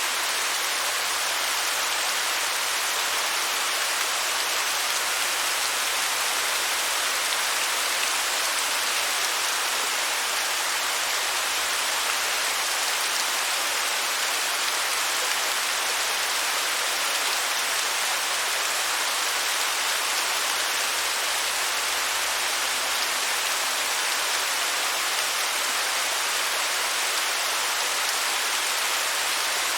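Waterfall: a steady, even rush of falling water, hissy and bright with little deep rumble, unchanging throughout.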